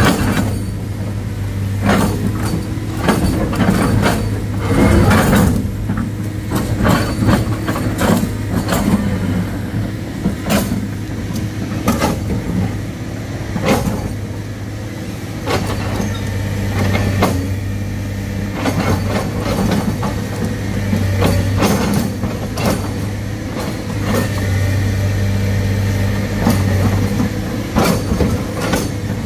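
Heavy diesel engine running steadily at a low, even speed. Frequent irregular knocks and clanks of metal and rock sound over it.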